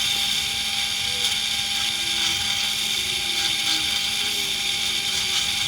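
Pillar drill running steadily with a Forstner bit, counterboring shallow holes into timber so the bolt heads sit below the surface.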